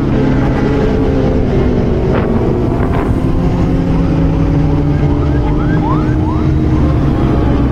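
Kawasaki ZX-25R's inline-four engine running at steady cruising revs on the move, with heavy wind noise; its pitch creeps slowly upward. A few short rising chirps sound about five to six and a half seconds in.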